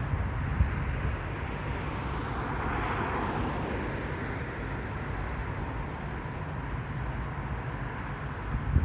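Steady low vehicle rumble, with a broad whoosh that swells and fades about three seconds in, as of something passing.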